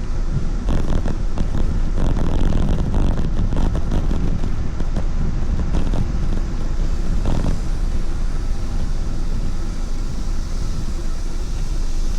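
Steady wind rushing and buffeting over the camera microphone during a ride, a deep rumble with scattered crackles.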